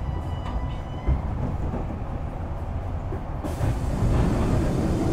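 Inside a Kintetsu 6020 series electric train coming in to stop at the end of its run: a steady low rumble of wheels on rail. A faint thin squeal dies away about a second in, and an even hiss comes in about three and a half seconds in.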